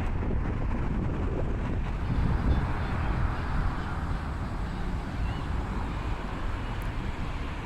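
Wind buffeting the microphone in uneven low gusts, over a steady outdoor hiss.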